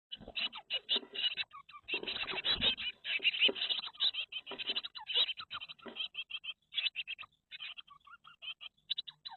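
Blue tits calling in rapid high chirps, much like nestlings begging, mixed with scratching and rustling. The calls thin out somewhat in the last few seconds.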